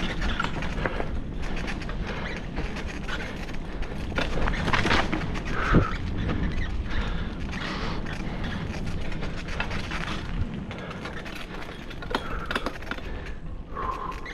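Bicycle rattling and jolting over a root-strewn forest trail, with wind noise, a stream of small knocks, one sharper knock a little before the middle, and several short creaks.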